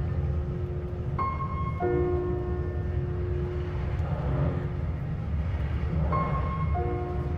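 Steady low running rumble of a passenger train in motion, heard from inside the carriage, under soft background music of slowly changing held chords.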